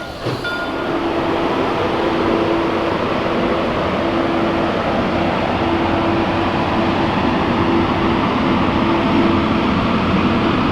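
Steam train running, a steady rumble and noise with a faint hum that comes and goes.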